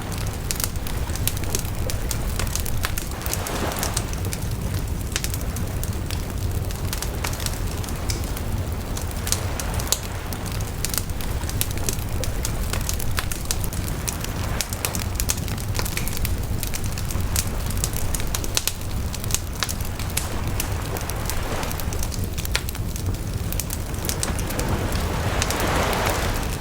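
Bonfire of burning wood: a steady low rumble of flame under frequent sharp crackles and pops, with a few swells of rushing flame, the strongest near the end.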